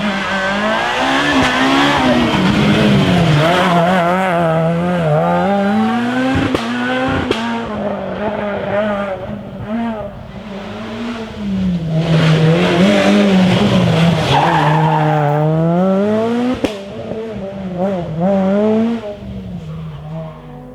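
Rally car engine driven hard, its pitch climbing and falling again and again as it accelerates and lifts through corners, with a few sharp pops along the way. It fades near the end.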